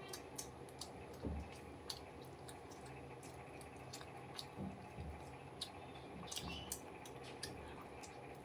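A person chewing food close to the microphone: wet, squishy mouth sounds with scattered sharp clicks and a few soft low thumps.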